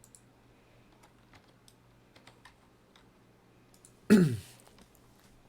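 Faint, scattered clicks of a computer mouse and keyboard. About four seconds in comes a short, loud vocal sound from the person at the computer, falling in pitch.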